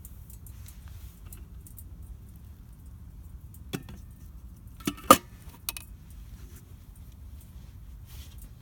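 Campfire burning with faint crackling, broken by a few sharp pops from the wood about halfway through, the loudest just after the middle, over a steady low rumble.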